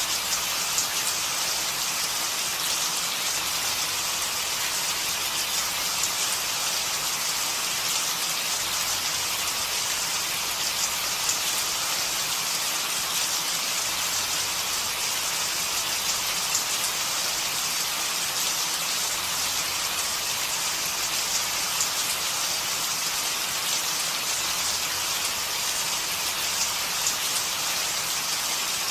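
Steady rain falling on a surface: a constant hiss with scattered louder drop ticks.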